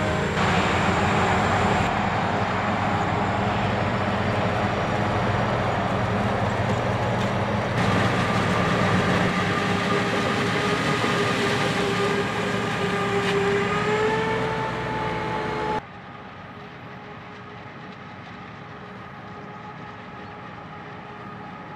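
Heavy diesel machinery of a corn silage harvest running loud and steady, its pitch climbing slightly just before a sudden cut about 16 s in to a quieter, steady engine hum.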